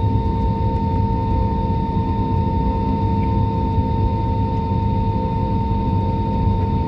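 Jet aircraft engines running steadily: a low rumble with a constant high whine and a lower hum.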